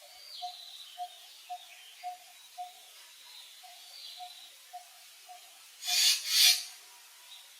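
Outdoor ambience of birds calling, with a short note repeated steadily about twice a second under higher gliding chirps. About six seconds in come two loud, rough rasping scrapes in quick succession.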